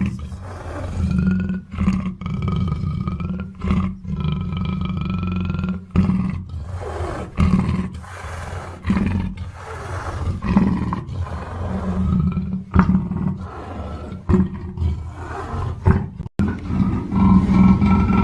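Black panther calling: a run of loud, pitched calls over a deep low rumble, breaking off every second or two.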